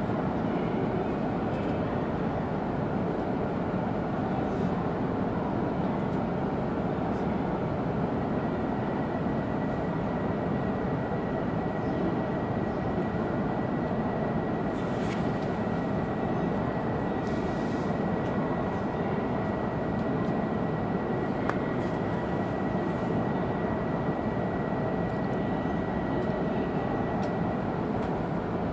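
Cabin running noise of an E2 series Shinkansen car: a steady rumble, with a thin high whine that comes in about a third of the way through and holds.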